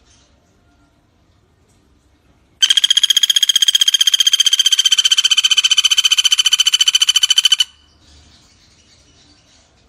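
Pelatuk bawang (common flameback woodpecker) giving a loud, fast, even rattling trill for about five seconds, starting a couple of seconds in and stopping abruptly.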